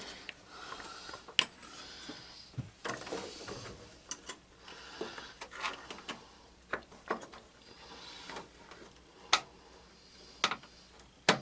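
Hand work on tools and parts: about ten sharp, irregularly spaced clicks and light clanks over faint rustling handling noise.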